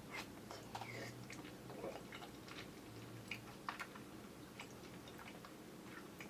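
A mouth chewing soft, chewy kyoho grape jelly, with faint, irregular wet clicks and sticky smacks over a steady low hum. It is picked up by a camera's built-in microphone.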